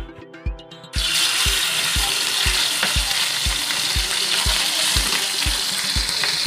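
Ground meat sizzling loudly in hot oil in a wok while a metal spatula stirs it. The sizzle starts abruptly about a second in.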